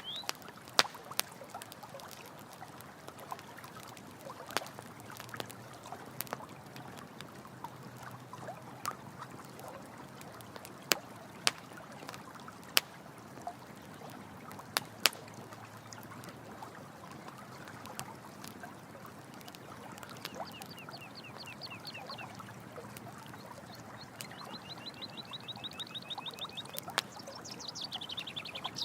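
Campfire crackling with scattered sharp pops over a steady trickle of running water. In the second half a high, rapid trill sounds twice, the second run longer.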